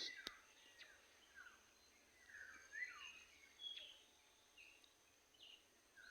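Faint, scattered short bird chirps and whistled calls, some sweeping up and some down in pitch, over a steady high-pitched hum.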